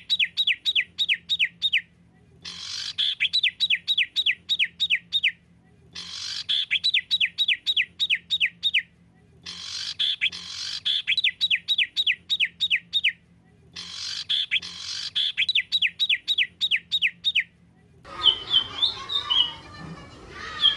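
Songbird training recording: a rapid, rattling series of about a dozen down-slurred notes, repeated five times roughly every three and a half seconds with abrupt silences between, as in a looped recording. Near the end it gives way to different, more varied chirping.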